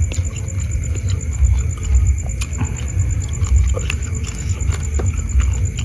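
Steady low rumble, with scattered small clicks and a constant high, fast-pulsing tone.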